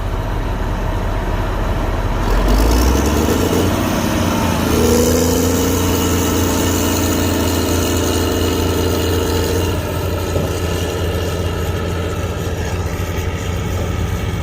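Vehicle engine running while driving, with a steady low hum; the engine note rises about three seconds in, holds steady for about five seconds, then eases off near ten seconds.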